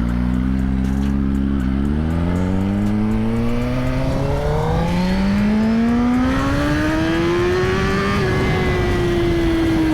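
Suzuki GSX-R1000's inline-four engine accelerating hard. The pitch climbs, dips briefly at a gear change about two seconds in, and climbs steadily again for about six seconds. It then drops near the eighth second and eases slowly down as the revs come off.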